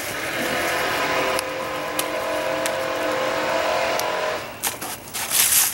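A motor engine drones steadily at an even pitch for about four seconds, then fades. Near the end there is a short, loud rustling scrape.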